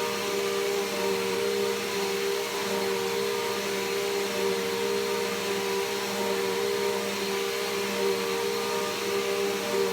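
Bissell PowerForce Helix Turbo upright vacuum cleaner running steadily: a constant motor hum and whine over the hiss of rushing air.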